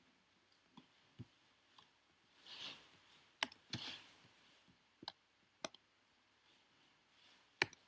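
Faint, scattered sharp clicks, about eight of them at uneven intervals, the loudest near the end, with two soft hissing swells in between.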